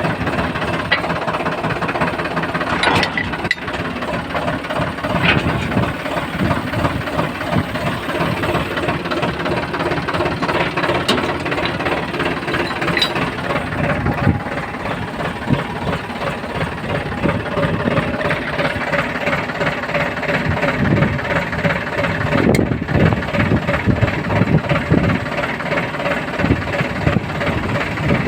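Diesel engines of a backhoe loader and a tractor running steadily with a clattering knock, the level rising and falling as they work, with a few sharp metallic knocks and rattles.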